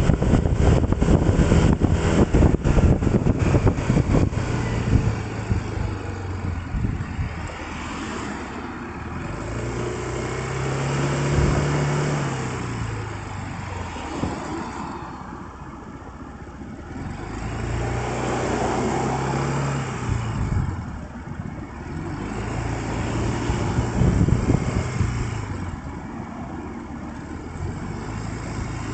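Engine of a road vehicle heard from on board, pulling away and easing off several times, its pitch rising and falling. Wind buffets the microphone for the first few seconds.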